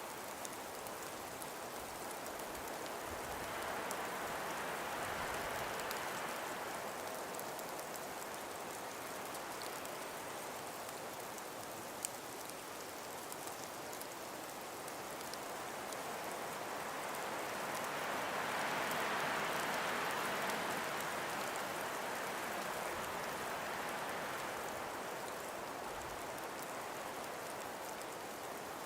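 Gentle breeze blowing through frost- and ice-covered forest trees, a steady hiss that swells in two slow gusts, one a few seconds in and one past the middle, with faint scattered ticks.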